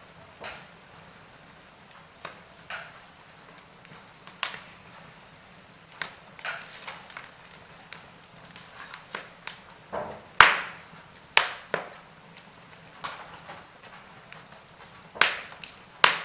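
Wood fire crackling in a fireplace: irregular sharp pops and snaps over a soft hiss, with the loudest pop about ten seconds in and several more strong ones near the end.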